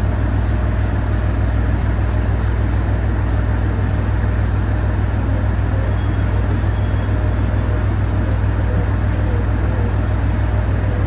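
Onboard sound of a Senseki-Tōhoku Line hybrid diesel railcar running: a steady low drone under a dense even noise, with a faint wavering whine and scattered faint ticks.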